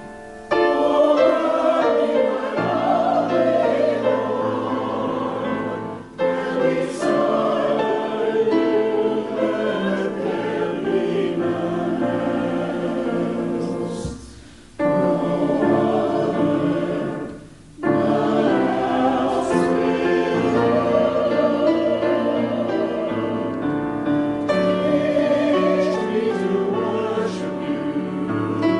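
A choir singing with piano accompaniment, in long held phrases; the singing drops out briefly twice, about halfway through and again a few seconds later.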